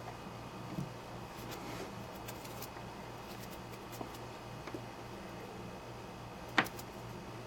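Small clicks from handling and cutting the power adapter's cord wire with wire cutters, with one sharp snip about six and a half seconds in, over a steady low hum.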